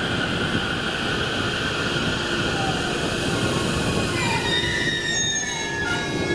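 A train running past on the rails, with a steady rumble and a high-pitched squeal or whine over it. About four seconds in, the high tones break up into shorter tones that shift and rise.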